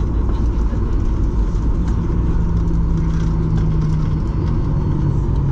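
Cabin noise inside a Boeing 737-800 on the ground just after landing: a steady rumble of the engines and the rolling aircraft. A low hum joins about two seconds in and drops slightly in pitch near the end.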